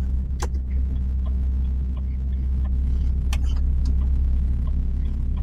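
Heard inside an HGV's cab: a steady low engine hum and rumble while the lorry is driven, with a couple of sharp clicks.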